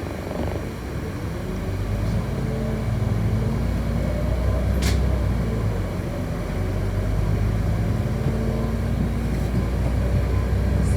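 City bus running, heard from inside the passenger cabin: a steady low drivetrain hum that builds about two seconds in as the bus gathers speed, with a single sharp click about halfway through.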